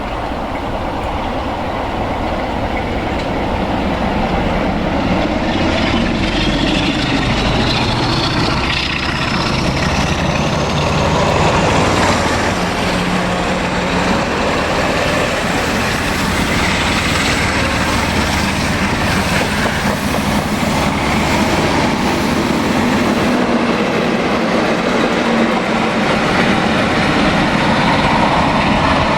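A train running through, its engine and wheel noise loud and continuous and building slightly. A thin whine climbs in pitch between about six and twelve seconds in.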